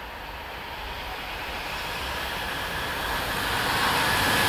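Bombardier TRAXX Class 386 electric locomotive hauling a container train on approach: the rolling noise of wheels on rail grows steadily louder, with a faint steady whine above it.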